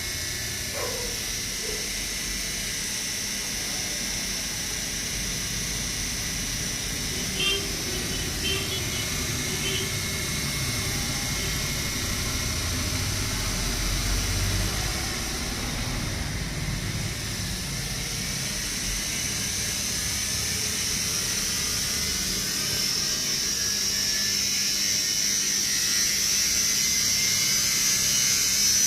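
Steady motor whirring with a high whine that creeps up in pitch and gets louder toward the end, and a few light clicks about a third of the way in.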